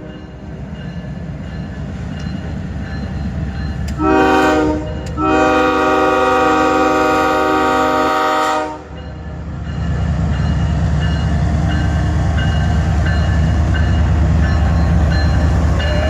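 Diesel locomotive horn, a Nathan K5HL chime, sounding a short blast and then a long one held for several seconds. After it stops, the low rumble of the GE diesel locomotives rises and stays loud as they throttle up.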